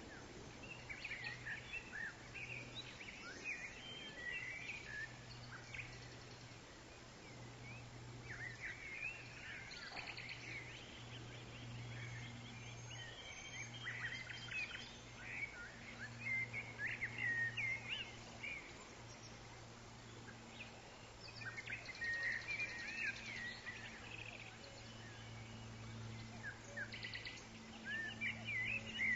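Forest ambience: several birds chirping and whistling in short bursts that come and go, over a steady low drone and a soft background hiss.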